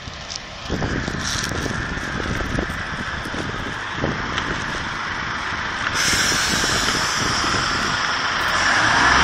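Northern Rail Class 142 Pacer diesel multiple unit moving past the platform: its underfloor diesel engine runs under power and its wheels knock on the track. The sound grows louder as it draws level, stepping up about a second in and again near the end.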